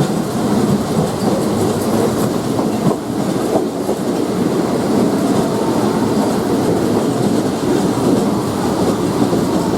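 State Railway of Thailand passenger train running along the track, heard from aboard: a steady rumble and rattle of wheels on rails.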